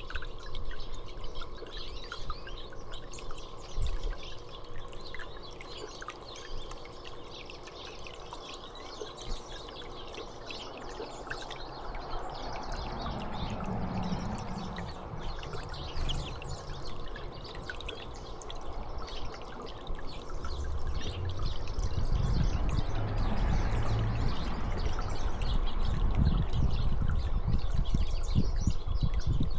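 Water trickling steadily, with many short high chirps from small birds scattered throughout. A low rumble under it swells in the second half.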